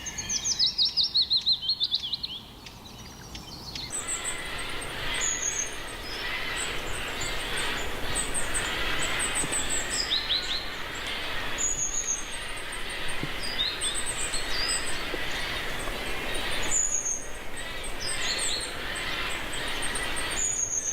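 Birds calling: a loud, rapid series of chirps falling in pitch, then, after a short lull, many birds chattering together, with high whistled notes repeated over the top.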